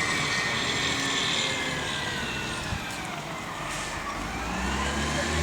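Rubbish truck engine running with a high whine that slides down in pitch for the first few seconds, then rises again, over a low rumble that grows near the end.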